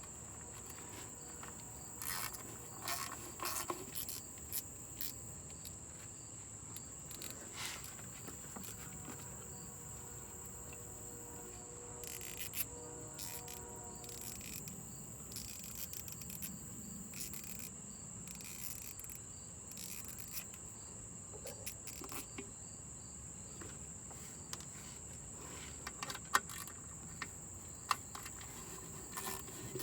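Scattered clicks and light metal knocks from hand tools working on the transmission pan bolts, over a steady high-pitched trill.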